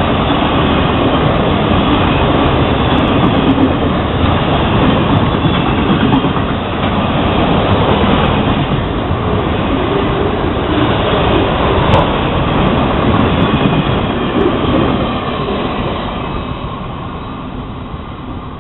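Florida East Coast Railway freight train passing close by: steady rumble and clatter of its cars' wheels on the rails, fading over the last few seconds as it draws away.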